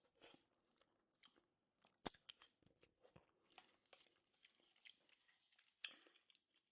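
Faint chewing with soft mouth clicks, two slightly sharper clicks about two seconds in and near the end.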